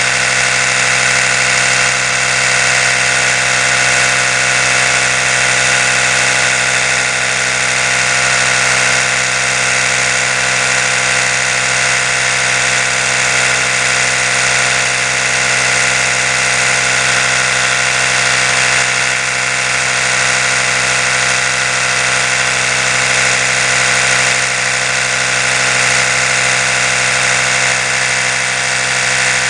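Oral-B electric toothbrush running continuously: its motor and spinning brush head give a steady, unchanging buzz.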